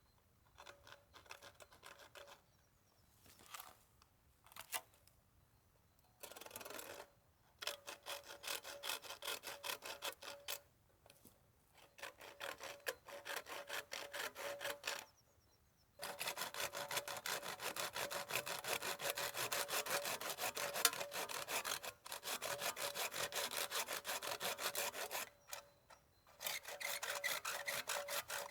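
Wood being cut by hand with a saw in several bouts of quick, even strokes, broken by short pauses.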